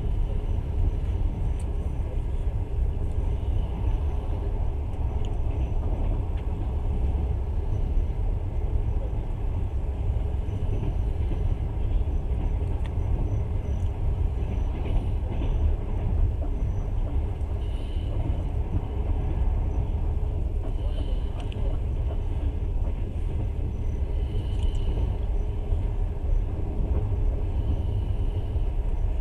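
Passenger train running along the track, a steady low rumble heard from on board, with a few faint brief high squeaks in the second half.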